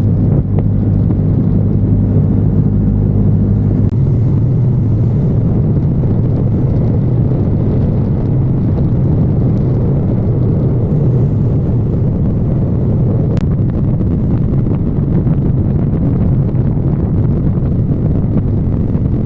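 Motorcycle engine running during a ride, with low wind rumble on the microphone. About four seconds in, the engine's steady note gives way to a broader, rougher rumble.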